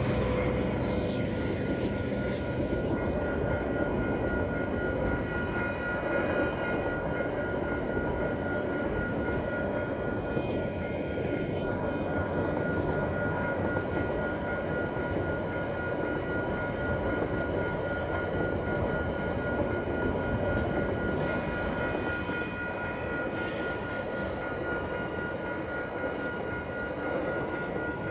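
Container freight wagons rolling steadily past at close range, with a continuous rumble and rattle of wheels on rail. The level crossing's warning bell rings throughout, and there is a brief high-pitched squeal about 23 seconds in.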